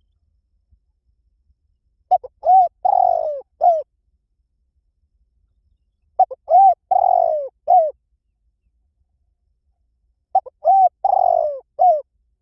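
Spotted dove cooing: three call phrases about four seconds apart, each a couple of short coos, a longer falling coo and a short final coo.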